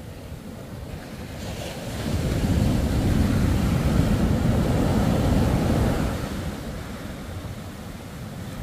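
Surf breaking and washing in, swelling louder for about four seconds in the middle, with wind buffeting the microphone.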